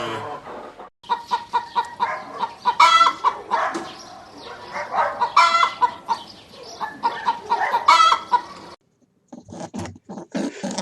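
Chickens clucking and cackling, several calls overlapping, with three louder cackles standing out. After a short break near the end, a different rapid series of short animal sounds begins.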